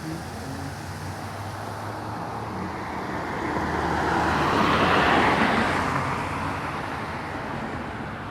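A car driving past, its engine and tyre noise swelling to a peak about five seconds in and then fading, over a steady low engine hum.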